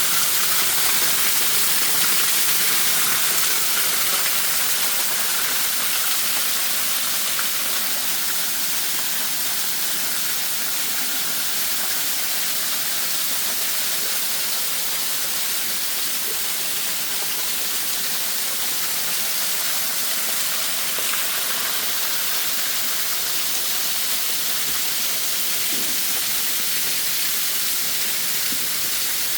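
Waterfall: falling water making a steady, even hiss that barely changes throughout.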